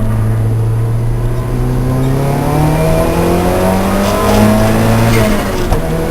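Lancia Delta's engine pulling hard on track: the revs hold steady for about two seconds, then climb for about three seconds, and drop sharply near the end at a gear change.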